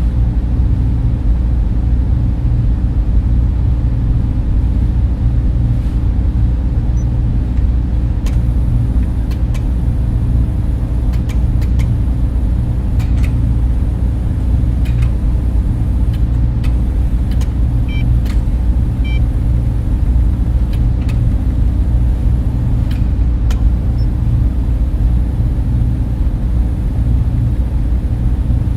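Steady data-center hum of server fans and cooling equipment running: a loud, even, deep rumble with a faint steady tone over it. A few faint ticks come through in the middle.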